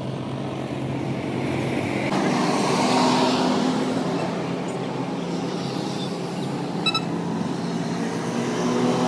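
Restored stone crusher machinery running steadily with a low engine hum, swelling louder about three seconds in, with a short metallic clink about seven seconds in.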